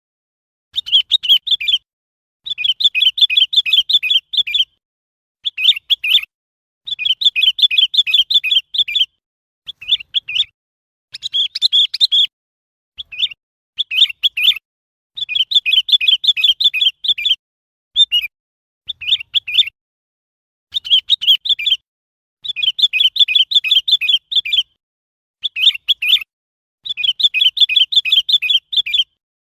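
Sooty-headed bulbul calling: short phrases of quick, high, bubbly notes, repeated over and over with brief silent gaps between phrases.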